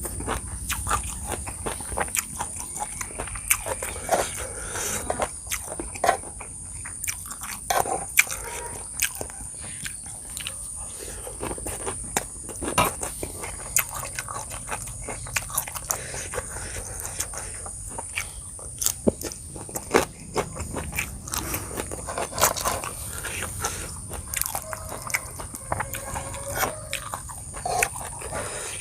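Close-miked eating: a person biting, crunching and chewing a spicy seafood papaya salad with raw vegetables, in many irregular sharp crunches. A steady high-pitched tone runs faintly underneath.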